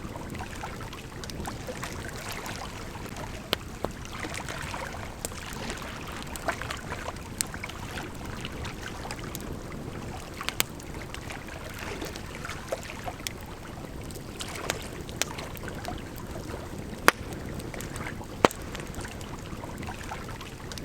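Campfire crackling, with sharp pops every second or two, over the steady rush of a gently flowing river.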